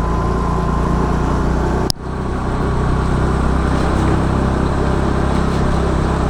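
Scooter engine running steadily on the move, with a steady hiss of road noise; a brief sharp break about two seconds in.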